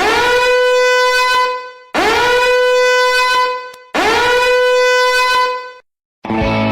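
Three identical horn blasts, each about two seconds long on one steady note. Each starts with a short upward slide and cuts off abruptly.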